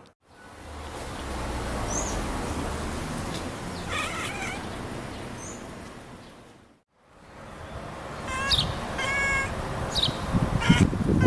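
Domestic cats chirping at birds: a short wavering chirp about four seconds in, then a quick run of short chirps in the last few seconds, over a steady background hiss. The sound drops out briefly just past the middle.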